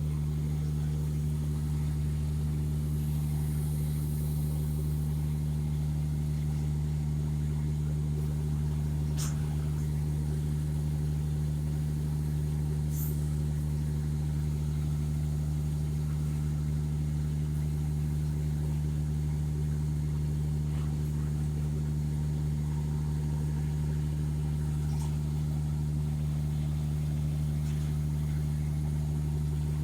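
Heavy vehicle engine running steadily at an idle, a constant low hum that never changes speed, with a couple of brief high clicks about nine and thirteen seconds in.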